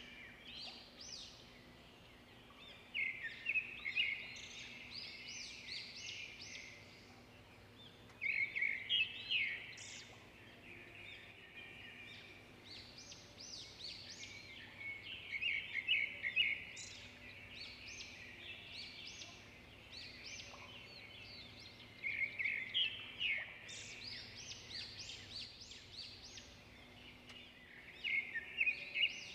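Chicken pieces, onion and tomato frying in oil in a nonstick pot, the sizzle crackling up in bursts every few seconds as a wooden spoon stirs them, over a faint steady hum.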